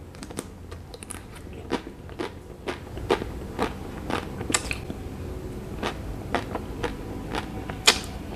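Close-up chewing of a mouthful of chocolate-coated ice cream bar. The hard chocolate shell crackles and crunches in irregular sharp clicks, about two a second.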